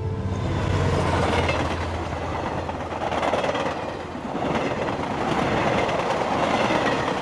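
A passing train hauled by an electric locomotive: a steady rush and rumble of wheels on the rails that swells and eases several times, heard as it crosses a railway bridge.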